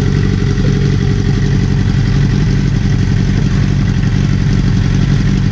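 Motorcycle engine running steadily at idle through a straight pipe, its slip-on exhaust removed.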